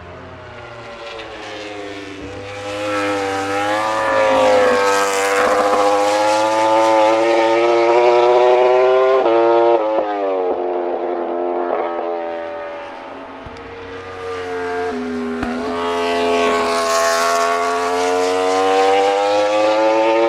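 Four-cylinder MotoGP prototype race bike at high revs on track, its pitch climbing steadily and loudly, dropping sharply about halfway through, then climbing again toward the end.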